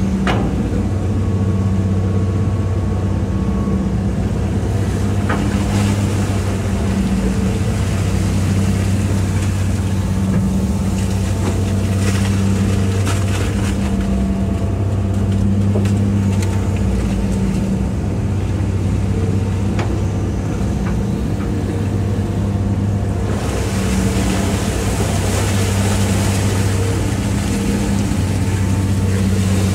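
Hitachi EX200-5 excavator's diesel engine running steadily at working speed. A rushing hiss joins about three quarters of the way through.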